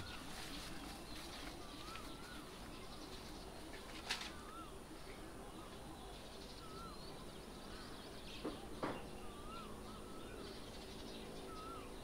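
Distant birdsong over a faint outdoor background: one bird repeats a short wavering whistle every couple of seconds, while other birds chirp softly. A sharper, brief call or click stands out twice, about four and nine seconds in.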